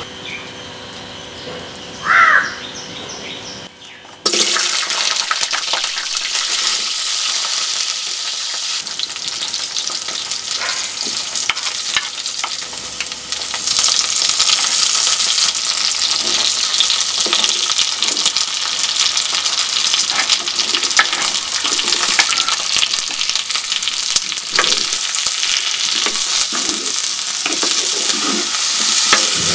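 Shallots, garlic and green chillies dropped into hot oil in a clay pot and sizzling, starting suddenly about four seconds in, with a wooden spoon scraping as they are stirred. The sizzle grows louder again partway through as curry leaves go in.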